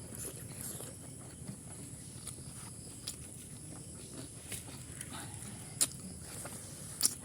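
Close-miked eating of pork curry: soft chewing and mouth sounds with a few short, sharp clicks, the loudest two near the end, over a steady hiss.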